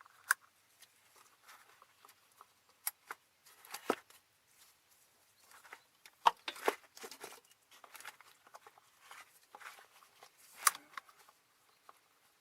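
Hand work with tools on a car's underbody fuel lines: scattered sharp clicks and taps with short rustling scrapes between them. The sharpest clicks come about a third of a second in, near three and four seconds, twice near six and a half seconds, and near eleven seconds.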